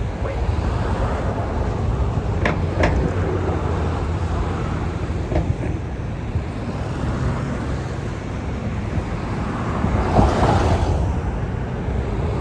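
Street traffic: a steady rumble of engines and tyres, with a vehicle passing close and loudest a little past the middle, about ten seconds in. A couple of short clicks come about two and a half seconds in.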